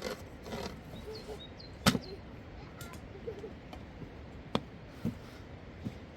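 A few sharp knocks or taps at irregular intervals, the loudest about two seconds in, with faint short high chirps just before it.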